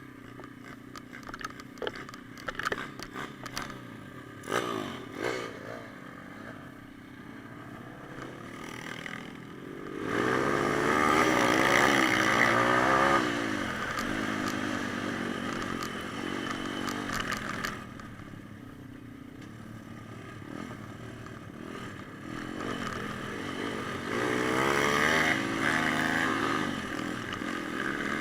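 Pit bike engine running and revving, its pitch rising and falling, loudest about ten to thirteen seconds in and again near the end. Several clattering, scraping knocks in the first few seconds.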